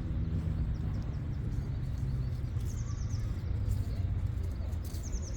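Low rumble of motorcycle engines running, with a steady pitch that fades over the first couple of seconds. A small bird gives a short, high chirping trill twice, in the middle and near the end.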